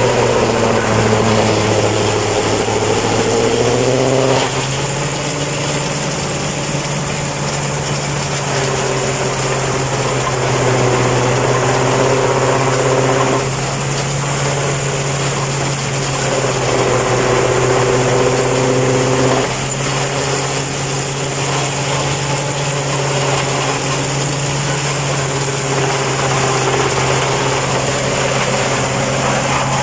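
Tractor engine running a tractor-mounted silage harvester, a steady low hum with a higher tone that comes in for a few seconds at a time and then drops away sharply, as the load changes.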